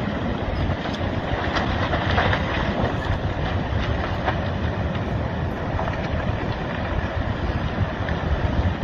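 Landslide sliding into the sea: a steady rumble with scattered cracks and snaps.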